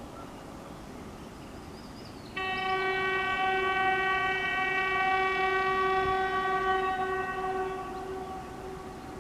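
Train horn sounding one long steady note, lasting about six seconds, starting suddenly a couple of seconds in and fading near the end.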